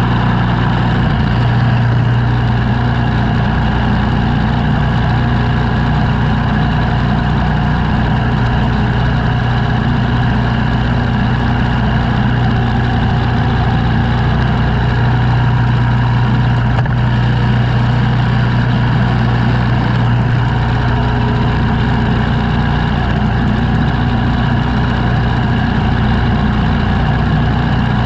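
An engine running steadily at a constant speed, with a strong low hum, on snow-clearing equipment.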